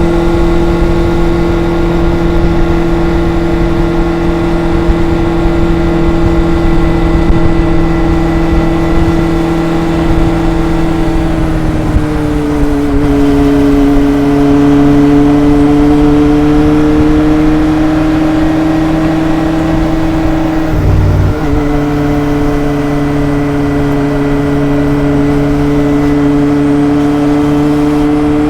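Kawasaki ZRX inline-four motorcycle exhaust during a ride, holding a steady engine note. About twelve seconds in the pitch drops and then climbs slowly, and near twenty-one seconds there is a brief dip before the note resumes.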